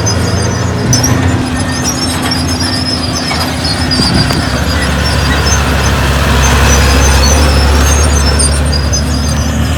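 Diesel engine of heavy construction machinery running under load, its drone growing louder about five to six seconds in, with high squeaks coming and going.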